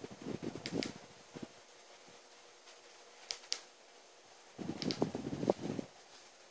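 Wood fire crackling in a fireplace: two short bursts of crackling with a few sharp pops in between.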